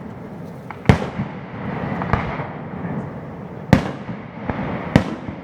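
Fireworks display: aerial shells bursting with sharp booms. Three loud booms fall about a second in, near four seconds and around five seconds, with fainter pops between them.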